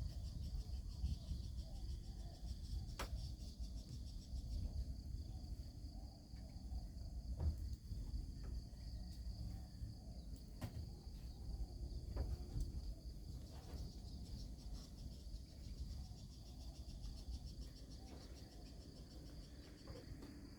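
Crickets trilling steadily in a high pitch over a low rumble, with a few sharp knocks scattered through the first half.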